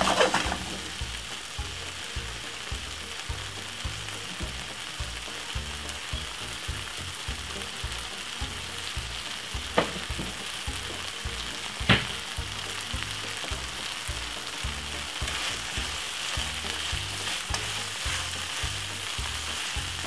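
Meatballs and vegetables in a thick tomato sauce sizzling steadily in a nonstick frying pan, with a couple of sharp taps about ten and twelve seconds in.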